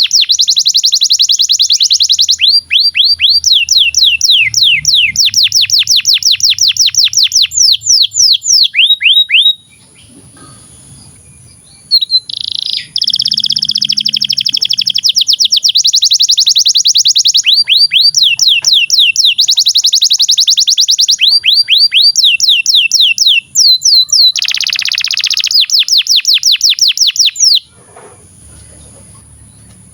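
Canary singing a long, loud song of fast trills: dense buzzing rolls alternate with rapid runs of short downward-sweeping notes. The song breaks off twice, for about two seconds each time, before starting again.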